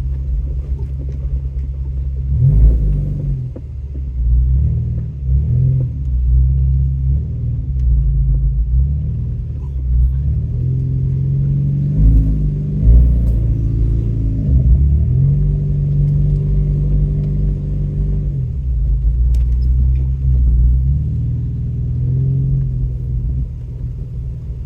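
Off-road vehicle's engine working through a muddy trail, its revs rising and falling again and again as the throttle is worked.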